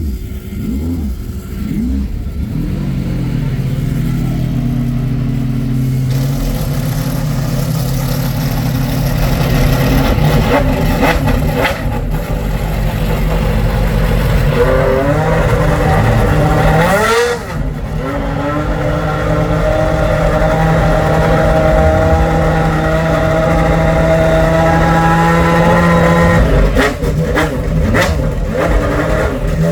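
Gordon Murray T.50s's naturally aspirated Cosworth V12 cold-starting: the pitch wavers in the first couple of seconds, then the engine settles into a steady idle. Around halfway there is a short rise and fall in pitch, after which it idles steadily again.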